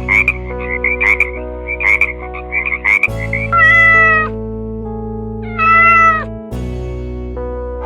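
A frog croaking in quick rattling calls, then two drawn-out cat meows, each falling in pitch at the end, over background music with steady held notes.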